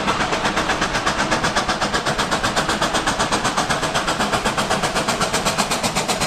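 RailKing model train running on its track, a steady rapid rhythmic clatter of about seven beats a second.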